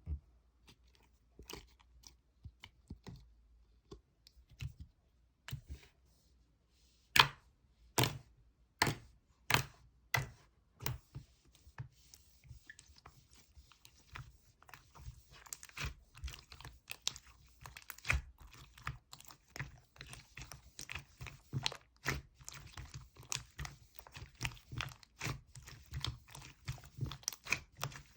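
Sharp clicks and crunching: a few scattered clicks, then a run of loud separate snaps about once a second, giving way to dense, steady crackly clicking.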